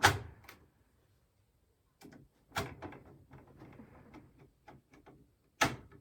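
PC case parts being handled and fitted: three sharp clicks or knocks, one at the start, one a little past halfway and one near the end, with softer rustling and small taps between.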